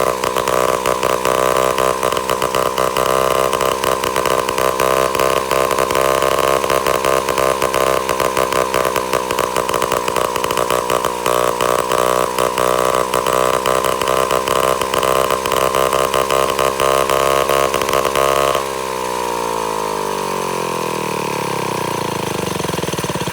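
A 1941 Japanese engine and gearbox running on test at a steady speed, with a fast rattle. About three-quarters of the way through, the power is cut and the note falls steadily as the engine and gearbox spin down.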